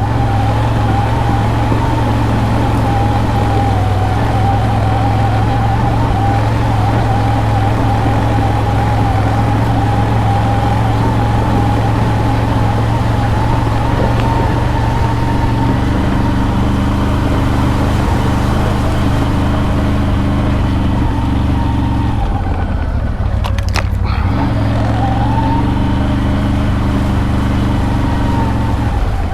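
ATV engine running steadily under way, with a steady whine over the engine hum. The engine eases off briefly about 23 seconds in, then picks up again, the whine rising back.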